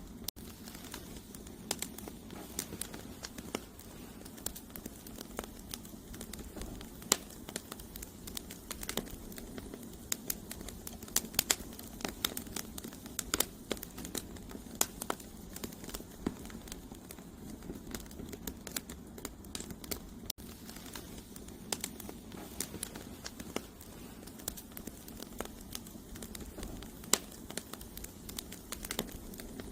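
Wood campfire burning: irregular sharp crackles and pops from the burning firewood over a steady low rush of flame.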